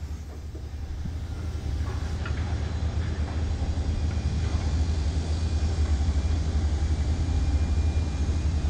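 A steady low rumble with a faint hiss above it, unbroken throughout.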